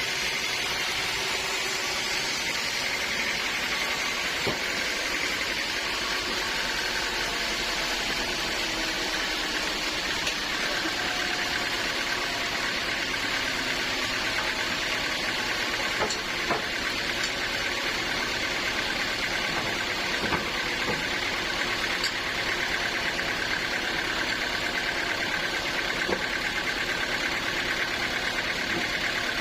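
Sawmill machinery running steadily, with a few light clicks along the way.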